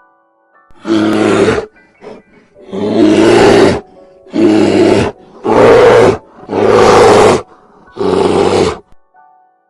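A big cat roaring: six loud, rough roars of about a second each, one after another.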